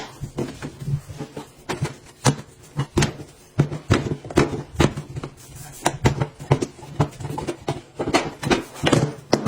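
An irregular series of sharp knocks and taps, two or three a second, over a faint steady low hum.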